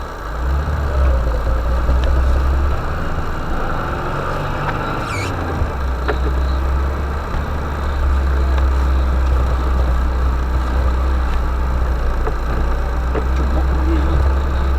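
Car engine running, a low drone heard from inside the cabin. It swells about half a second in and dips briefly around five seconds before holding steady.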